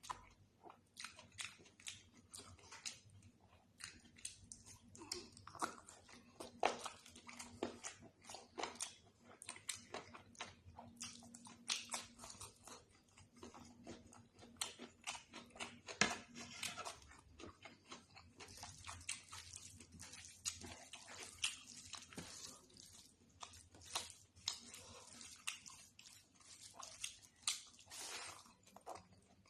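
Close-miked eating sounds: a person chewing and biting food, with many irregular wet mouth clicks and smacks.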